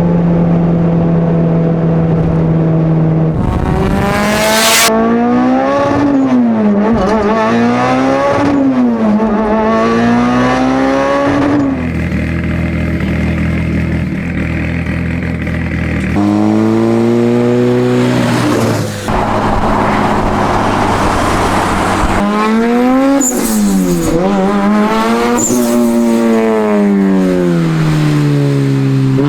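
Tuned Mitsubishi Lancer Evolution X's turbocharged 2.0-litre four-cylinder engine revving up and dropping back again and again, with a few stretches at steady revs. There are two spells of loud hiss, one a few seconds in and another past the middle.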